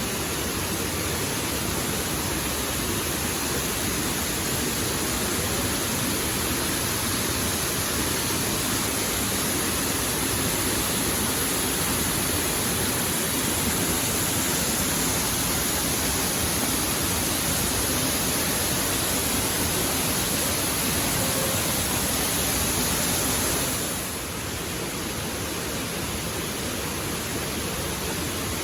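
Waterfall rushing in a steady, even roar of falling water, dipping slightly in level near the end.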